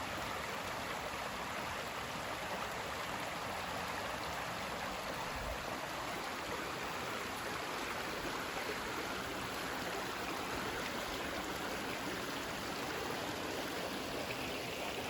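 Water rushing in a river, a steady, even rush that does not change.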